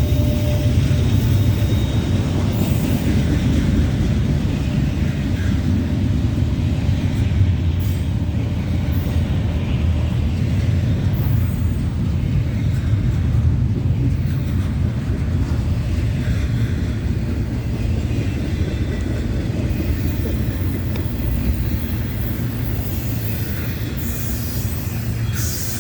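Norfolk Southern train passing, a steady low rumble of the train on the rails.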